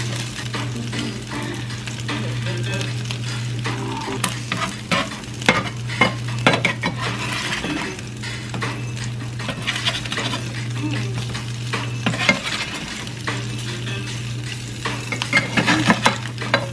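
Crab cakes sizzling as they pan-fry in a skillet, nearly done, with a spatula scraping and clicking against the pan as they are nudged and turned. A low steady hum runs underneath.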